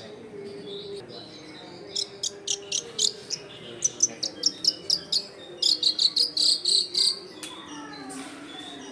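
Long-tailed shrike (cendet) singing: a quick run of sharp, high chirps starting about two seconds in, running into a fast trill that stops about seven seconds in. A steady low background noise lies underneath.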